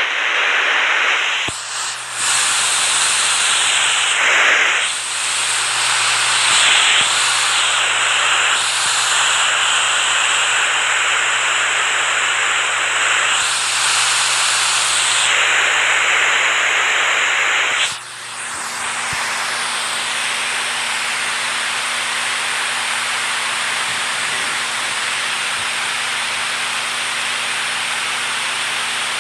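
Rushing water, a dense, loud rush with small swells and dips. About eighteen seconds in it cuts to a different, steadier rush of water.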